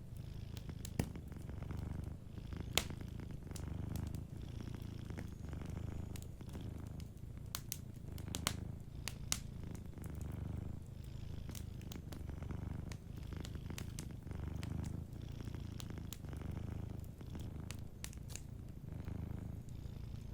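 Domestic cat purring steadily, its low rumble swelling and fading with each breath about once a second. A few sharp crackles and pops from a wood fire sound over it, most of them in the first half.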